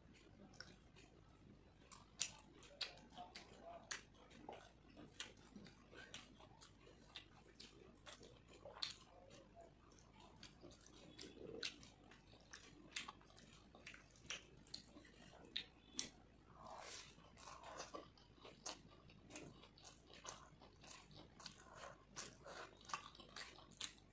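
Quiet close-up chewing of fried rice and chicken curry, eaten by hand, with many sharp, irregular mouth clicks and smacks.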